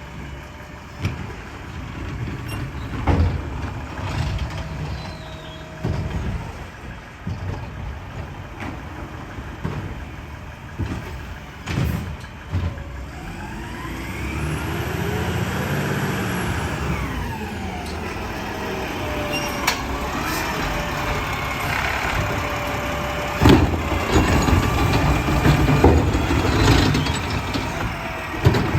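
Garbage truck running while its packer compacts trash. The engine revs up and falls back about halfway through, and there are several sharp bangs and clanks.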